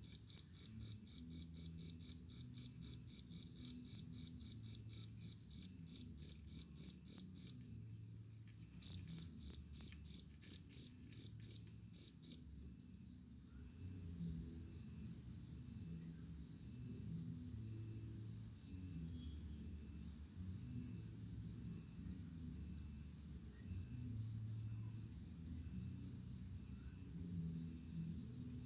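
Cricket chirping in a fast, steady string of high-pitched pulses, the pulses running closer together from about halfway through.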